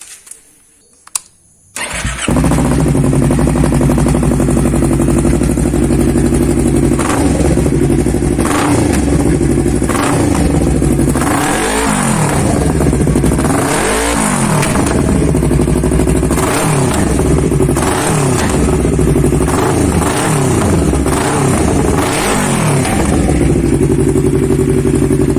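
Yamaha R25's parallel-twin engine breathing through an R9 Alpha aftermarket exhaust. After a couple of clicks it starts about two seconds in and idles, then the throttle is blipped again and again in short revs. Near the end it settles back to a steady idle.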